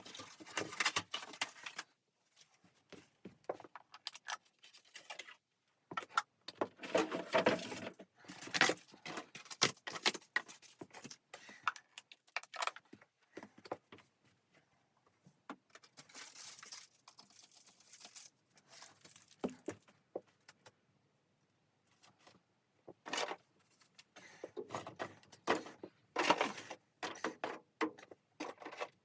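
Bursts of clattering and rustling as objects are handled and moved about, with short quiet pauses between them.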